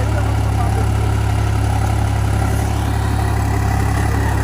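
Tractor's diesel engine idling steadily, a constant low hum.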